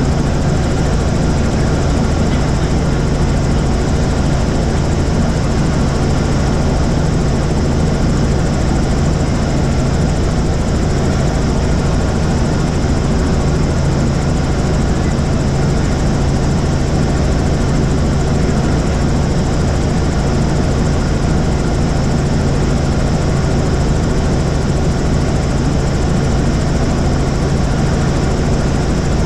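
Helicopter in flight: the steady, loud drone of the rotor and engine, holding one even pitch throughout.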